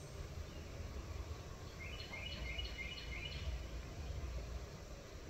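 Outdoor background with a steady low rumble; about two seconds in, a small bird gives a quick run of about five short, high chirps.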